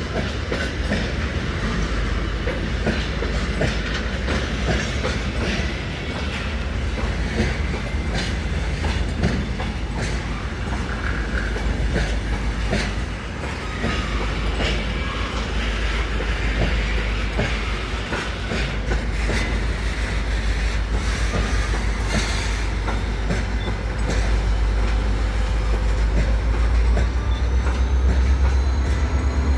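Freight train rolling past close by: a steady low rumble with the wagons' wheels clicking over the rail joints, growing a little louder near the end.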